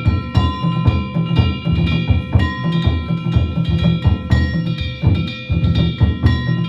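Danjiri hayashi festival music: a taiko drum beaten in a quick, continuous pattern, with metal kane gongs struck over it, their ringing carrying on between strokes.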